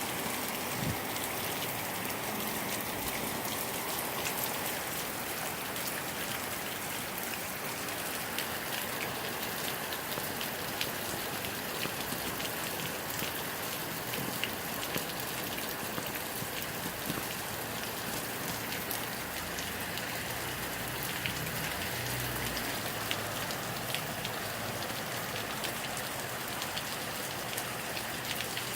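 Heavy rain falling steadily, with many individual drops ticking sharply on nearby surfaces. A few low rumbles of wind gusting on the microphone come a little past the middle.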